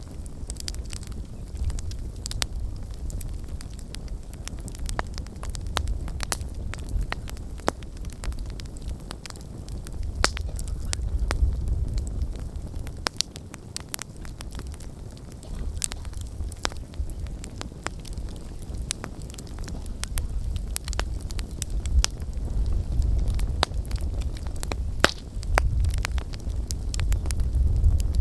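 Wood campfire crackling, with frequent sharp, irregular pops and snaps over a low, uneven rumble.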